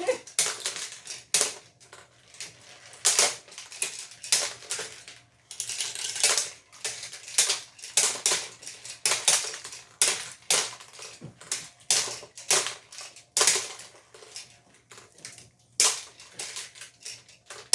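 Hard plastic toys clattering and clicking, a string of irregular sharp clacks about one or two a second as game pieces are handled and knocked over.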